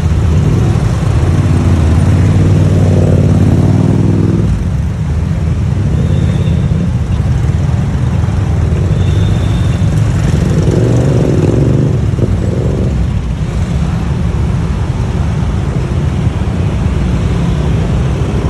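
Riding a motorbike through city traffic: a steady low rumble of engine and road noise, with engines rising in pitch twice, about a second in and again about ten seconds in.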